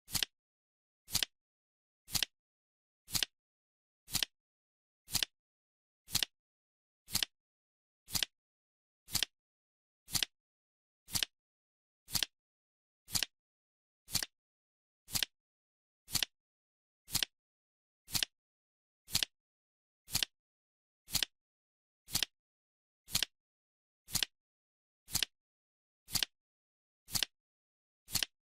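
Countdown timer's clock-tick sound effect: one sharp, crisp tick each second, evenly spaced, with dead silence between ticks.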